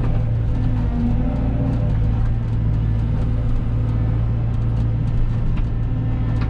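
Cat 313 excavator's diesel engine running steadily, with a few faint clicks over it.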